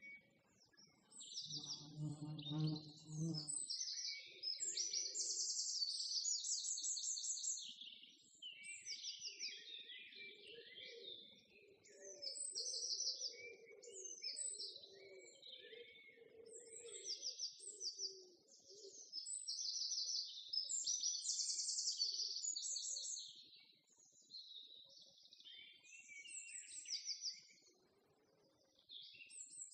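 Small songbirds chirping and singing, with quick repeated high trills one after another.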